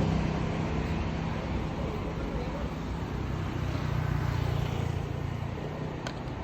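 Street traffic: a steady low rumble with a vehicle passing, loudest about four seconds in.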